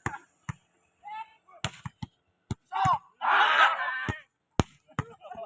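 Volleyball being struck hard by hand, six or so sharp slaps spread across a few seconds, with people shouting in a burst near the middle.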